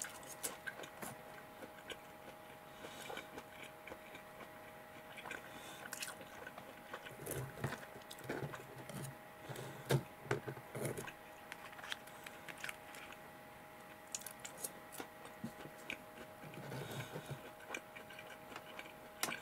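A person chewing pieces of chicken nugget, with scattered light clicks of chopsticks against a cutting board and sauce tub.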